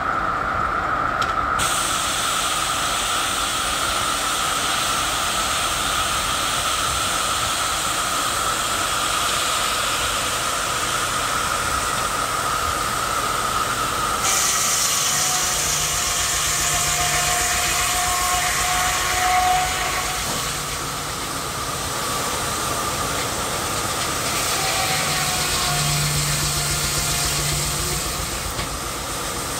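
Steam traction engine running with steam hissing. A steady whine carries through the first half; about halfway in the sound changes, with a brighter hiss and a low hum coming and going.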